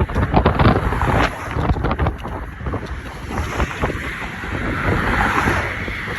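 Wind buffeting the microphone in gusts, with the hiss of a vehicle passing on the road swelling and fading in the second half.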